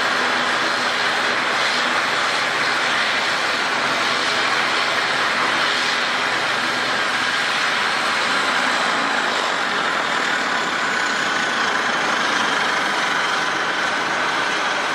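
Aircraft engines running steadily: an even turbine noise with faint whining tones in it, one of them gliding slowly down in pitch after about ten seconds.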